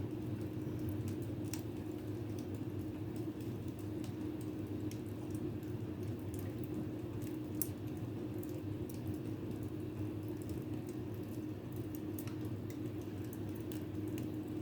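Fireplace fire crackling with scattered small pops and ticks over a steady low hum.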